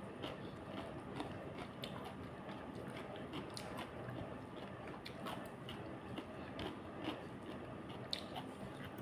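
A person chewing and biting food close to the microphone: irregular short clicks and smacks over a steady background hiss.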